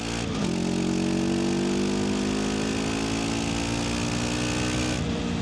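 Voge 525 DSX motorcycle's parallel-twin engine on its stock exhaust, running under way: the engine note dips briefly about half a second in, climbs slowly and steadily, then dips again near the end.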